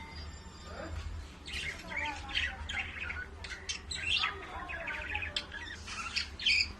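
Pet birds chirping and squawking: a dense, overlapping chatter of short high calls that starts about a second and a half in.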